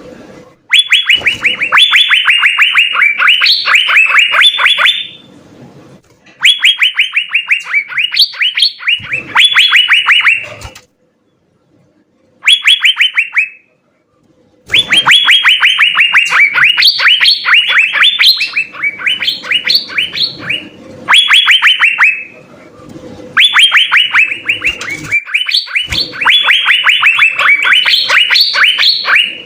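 Asian fairy-bluebird (cucak biru) singing. It gives loud bouts of quick, sharp, downward-slurred notes, many per second. The bouts last from about one to seven seconds and are separated by short pauses.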